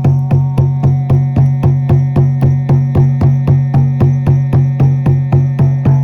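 Frame drum (shaman's buben) beaten in a steady, even rhythm, about three strikes a second, over a steady low drone.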